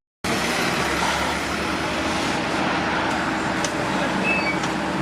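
A London bus running close by at the roadside, a steady engine drone with a constant low hum over road noise.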